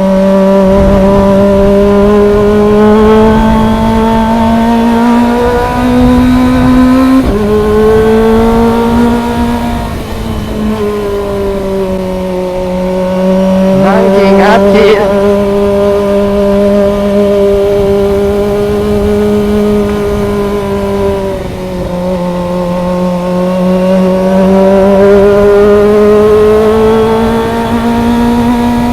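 Kawasaki ZX25R's 250 cc inline-four engine running steadily at high revs under way. Its pitch steps and dips a few times with throttle and gear changes, at about 7, 10 and 21 seconds in. About halfway through, a brief high sound rises and falls quickly over the engine.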